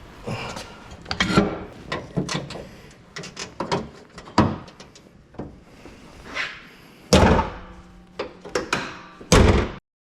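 A string of sharp knocks and clatters, with two heavy thuds, the loudest, about seven and nine seconds in; the sound cuts off suddenly just before the end.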